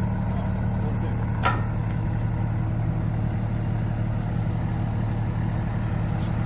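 Diesel engine of an International rear-loader garbage truck idling steadily, with one short sharp click about a second and a half in.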